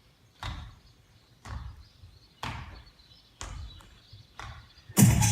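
A sharp percussive hit repeated at a steady beat of about one per second, five times, each ringing out briefly. Loud electronic dance music with a heavy beat cuts in near the end.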